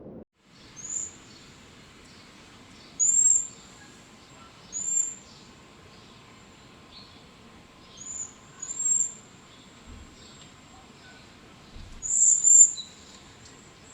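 Bird chirping: short, high-pitched notes repeating every second or two, the loudest pair near the end, over a faint steady high whine.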